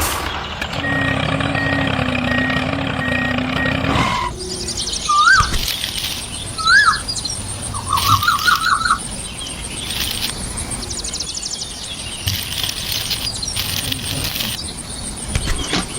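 Birds chirping: a few separate rising chirps and a short trill, over a faint steady high-pitched whine. For the first four seconds a steady low hum plays, then stops abruptly.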